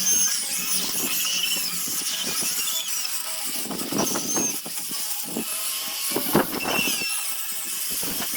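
Power sanding tool abrading a zelkova root, a steady high grinding noise with short whines that bend in pitch now and then.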